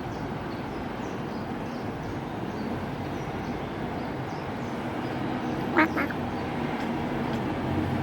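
Domestic cat chattering at a bird: two short, quick chirping calls close together about six seconds in, over a steady background rumble.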